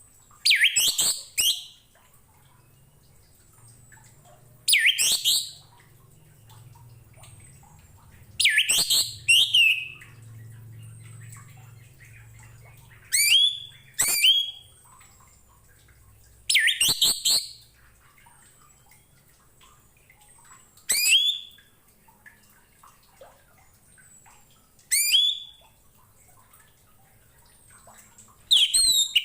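Orange-headed thrush (anis merah) singing short, loud, varied phrases about every four seconds, with quiet gaps between them. Faint, high, thin falling notes sound in the gaps.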